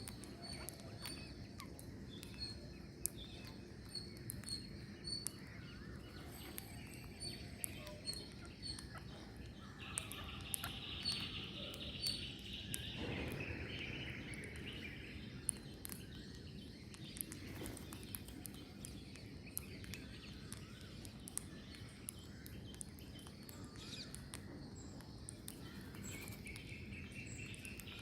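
Birds chirping outdoors: a run of short, high chirps about twice a second, then a denser burst of calls about ten seconds in and again near the end, over a steady low background noise.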